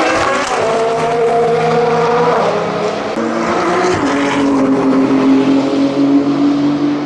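BMW M4 GT3's twin-turbo 3-litre straight-six race engine running hard. Its pitch jumps up about half a second in, drops again a little past the middle and then holds steady.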